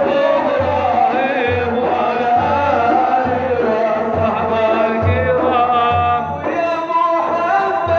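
Arabic madih, a religious praise song: a man's voice sings a winding, ornamented melody over a steady low drum beat of about one stroke a second.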